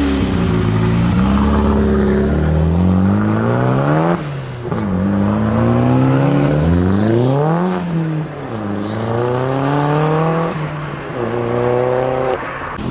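A high-performance car accelerating hard. Its engine note climbs in pitch, then drops sharply at each upshift, three times, before it settles into a steadier note near the end.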